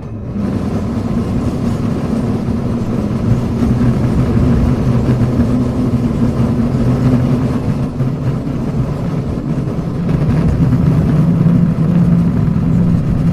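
Hankai Tramway car 351 running, heard from on board: a steady traction-motor and gear hum over wheel-on-rail rumble. It grows louder within the first half-second as the tram gets going, then holds steady.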